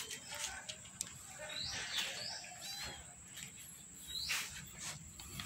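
Small birds chirping: a few short, high chirps and a brief trill, over a constant thin high-pitched tone.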